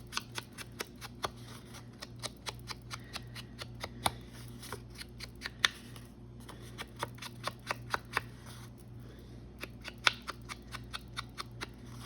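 An ink pad being dabbed and tapped along paper edges: rapid, irregular light taps and clicks with soft scuffing in between.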